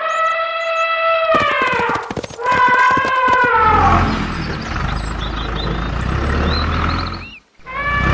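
A drawn-out pitched tone with rapid clicking over its middle, then a low, steady truck-engine rumble that cuts off abruptly near the end.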